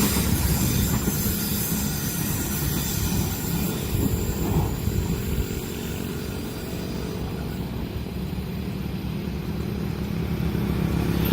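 A train running past a level crossing: a dense rumble of wheels on rail that eases off after about six seconds, leaving a steady low engine hum.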